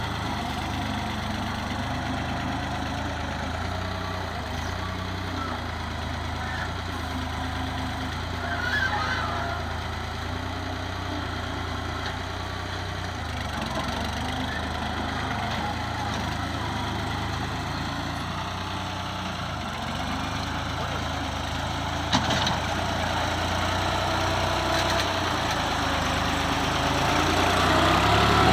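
New Holland tractor's diesel engine running steadily, growing louder near the end, with a single sharp knock about two-thirds of the way through.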